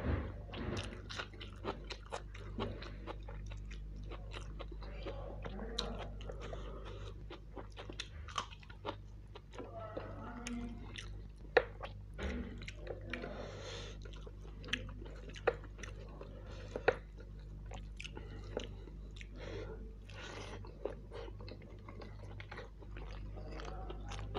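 Close-miked chewing of mouthfuls of mutton kofta biryani eaten by hand, with many short wet mouth clicks and smacks scattered throughout and a few louder ones.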